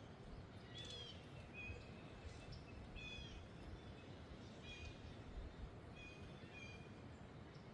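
Faint wind noise with small birds chirping, short high call notes repeating every second or so.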